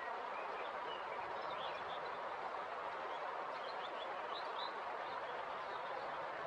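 River water flowing steadily, with faint short bird chirps scattered above it.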